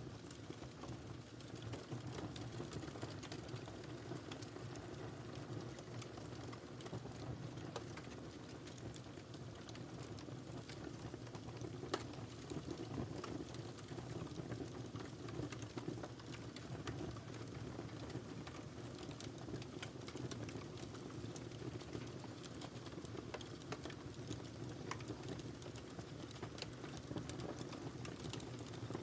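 Wood fire crackling in a fireplace: a steady low rustle of burning with many small, irregular pops and snaps, and one sharper pop about twelve seconds in.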